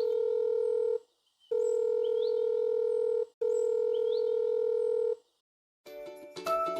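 Electronic telephone tone: three long, steady, mid-pitched beeps, each with short high rising chirps inside it, ending about five seconds in. Music with plucked notes starts near the end.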